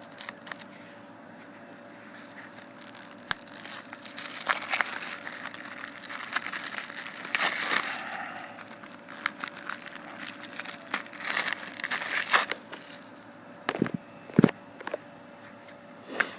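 Plastic wrapping on a DVD case crinkling and tearing in irregular bursts as it is pulled off, then a few sharp clicks near the end as the plastic case is snapped open.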